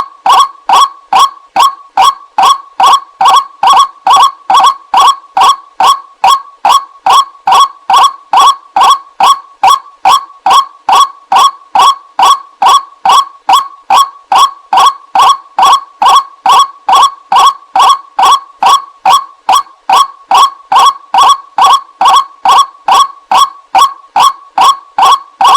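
White-breasted waterhen lure call: a loud, even series of short 'ruak' notes, about two and a half a second, repeated without pause, the recording used to draw wild waterhens in.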